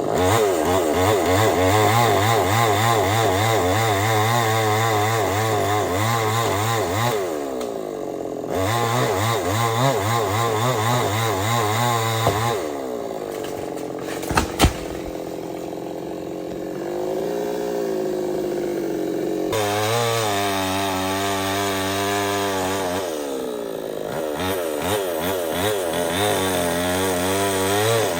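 Stihl 070 two-stroke chainsaw cutting teak under load, its engine note wavering as the chain bites. It eases off briefly about seven seconds in. A little after twelve seconds it drops to a lower note for several seconds, with a sharp knock near the fourteenth second, then revs back up and cuts on.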